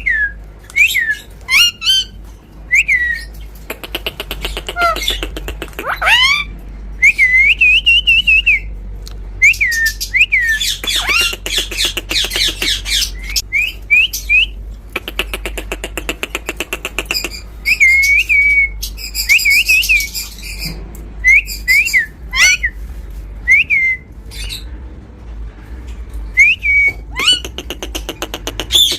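Pet parrot calling: a long run of short whistled chirps that rise and dip in pitch, mixed with harsh squawks.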